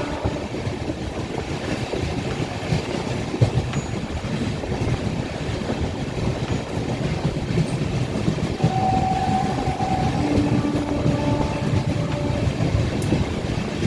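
Steady low rumble of a moving vehicle, with a few brief steady tones sounding in the second half.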